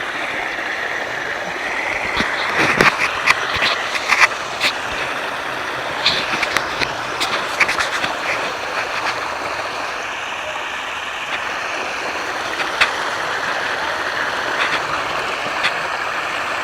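Floodwater rushing down a small creek and over a small waterfall, a steady rush, with scattered sharp ticks and splashes between about two and eight seconds in.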